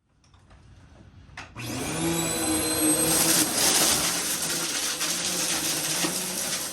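A vacuum cleaner is switched on with a click about a second and a half in. Its motor spins up and then runs steadily with a loud whine and rushing air.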